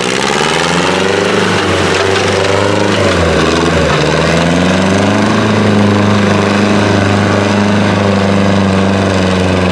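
Tractor engine running steadily under load, its pitch dipping and recovering briefly a few seconds in.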